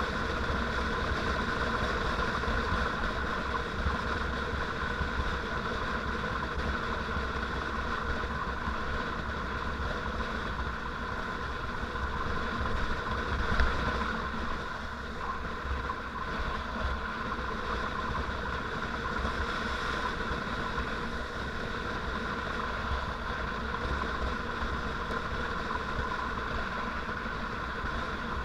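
Motorcycle engine running at a steady cruise with wind noise on the microphone, with a brief louder moment about halfway through.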